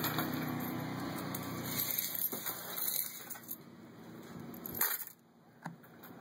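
A few separate light clicks and taps: pennies being dropped one by one into a small floating homemade boat.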